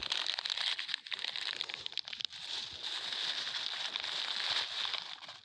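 Plastic litter crinkling and rustling as it is pulled free of vegetation and handled, a dense crackle of fine clicks that dies down near the end.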